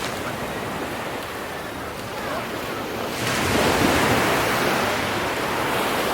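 Ocean waves breaking on the shore, a wave surging in about three seconds in and washing back, with wind buffeting the microphone.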